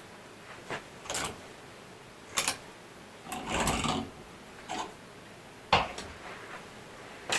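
Household objects being handled: a string of separate sharp clicks and knocks with a longer rustling scrape about halfway through.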